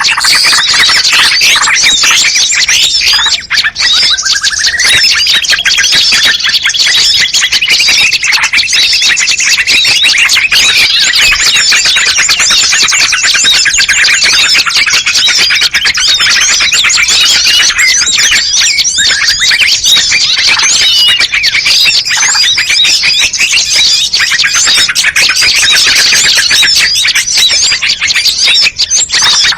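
Dense, loud chorus of many small songbirds chirping and calling at once, a mixed-species bird-luring recording. About four seconds in, one long whistle rises and holds for several seconds over the chatter.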